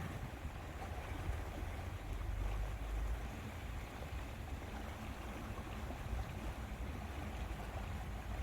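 Lakeside ambience: wind rumbling on the microphone over a steady hiss of wind and small waves on the lake water.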